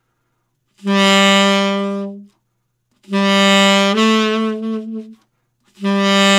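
Solo saxophone playing a held note three times, each lasting about a second and a half with a short gap between. The middle note steps up about a whole tone partway through and wavers with vibrato: the teacher is demonstrating how to shape the sound of a tune's opening note.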